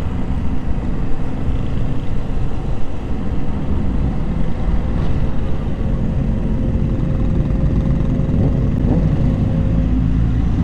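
Motorcycle engine running while riding, under a steady rush of wind and road noise.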